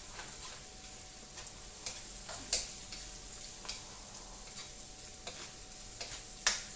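Onion and garlic frying in oil in a pot: a faint steady sizzle broken by irregular sharp clicks and ticks, about eight of them, the loudest about two and a half seconds in and near the end.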